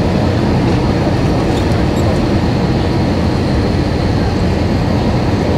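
Steady rumble of a jet airliner's engines and rushing air, heard from inside the passenger cabin.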